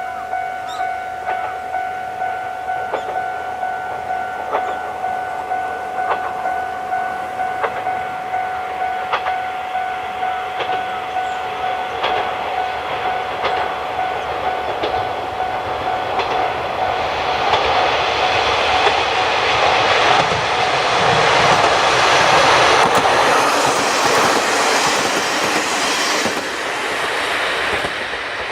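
A Japanese level-crossing alarm rings with a steady, repeating tone as the 'Hayato no Kaze' diesel train approaches. From a little past midway the train's running noise builds, with wheels clacking over rail joints; it is loudest about three-quarters through and eases near the end.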